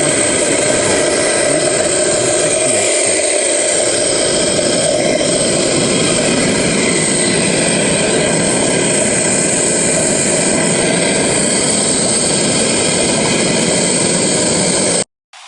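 75 HP Ingersoll Rand SSR-XF75 rotary screw air compressor running under power: a loud, steady machine noise that cuts off suddenly near the end.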